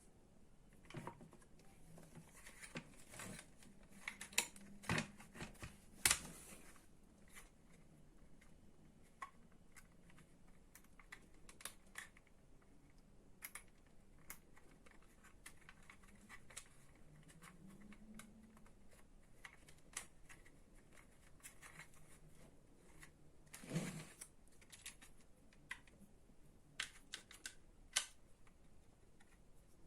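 Light, irregular clicks and knocks of plastic and metal trimmer parts being handled during reassembly, with a few louder knocks.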